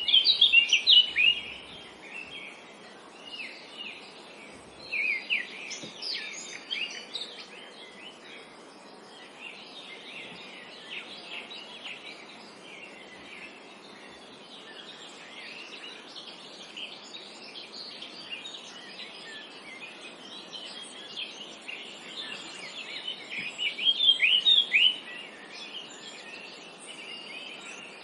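Several small birds chirping and singing in a forest over a steady background hiss, with louder bursts of rapid chirps at the start, about five seconds in, and again near the end.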